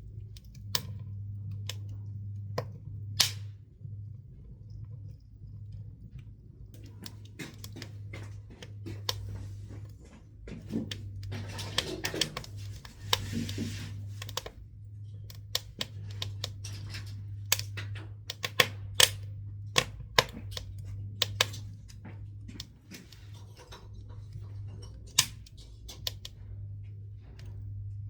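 Pine firewood and woodworking offcuts crackling in a wood-burning stove, with sharp, irregular pops and a short hissing spell about halfway through. A steady low hum runs underneath.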